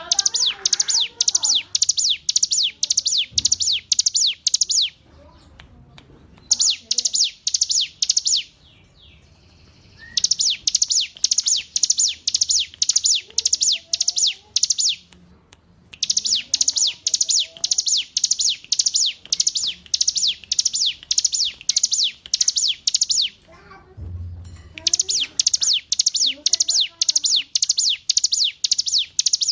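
Ciblek gunung (mountain prinia) singing: a fast string of sharp, high, repeated notes at about three a second, in runs of several seconds broken by short pauses. Fainter, lower chirps and warbles sound beneath it.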